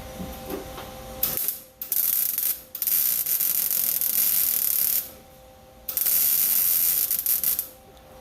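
MIG welder arc crackling as floor-pan sheet metal is tack and stitch welded in short runs: one brief blip about a second in, then three welds of one to two seconds each with short pauses between. A faint steady hum runs under it.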